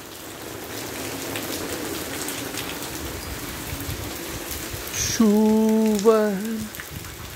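Steady, moderate rain falling on a tiled patio and yard, an even hiss throughout. About five seconds in, a brief held pitched tone lasting about a second and a half stands out over the rain.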